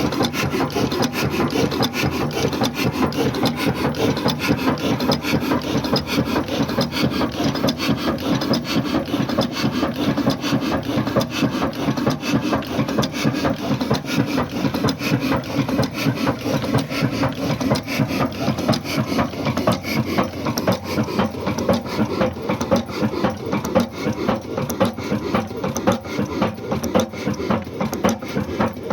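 Old Ruston Hornsby black diesel engine running steadily, with a fast, even, rhythmic knocking.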